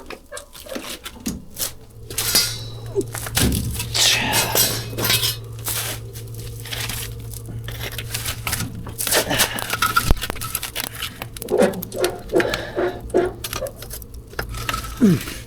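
Firewood logs knocking and clattering as they are loaded into a wood-fired boiler's firebox, in a run of irregular wooden knocks. A steady low hum sets in about two seconds in.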